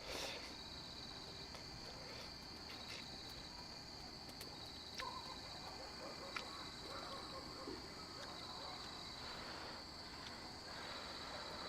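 Rainforest insects chirring steadily in a high, pulsing drone, fairly quiet, with a few small clicks or knocks partway through.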